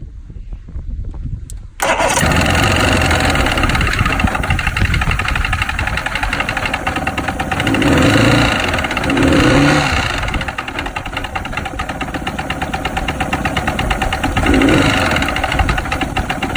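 1997 Mercury 115 oil-injected inline-four outboard catching about two seconds in and running with a knock, revved briefly three times. The owner takes the knock for rod knock from a bad crankshaft bearing after the engine ran nearly out of oil.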